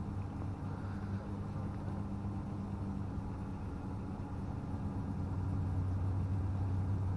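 An engine running steadily with an even low hum, growing a little louder about five seconds in.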